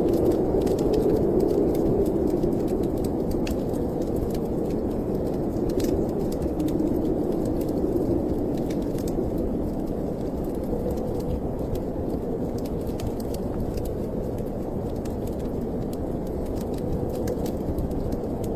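Steady low rushing wind of a snowstorm, swelling and easing slowly, with scattered sharp crackles of a wood fire.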